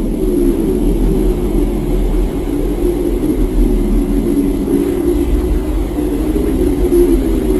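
A steady, loud, low rumbling noise.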